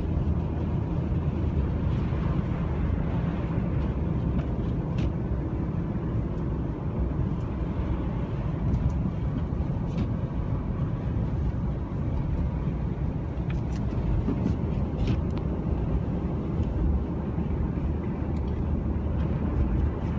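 Steady low rumble of a car driving on a snowy road in a blizzard, engine and tyre noise heard from inside the cabin, with a few faint clicks.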